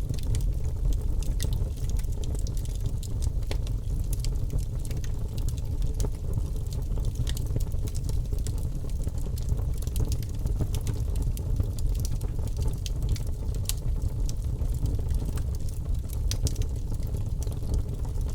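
Birch logs burning in a fireplace: a steady low rumble of flames with frequent small, sharp crackles and pops scattered irregularly throughout.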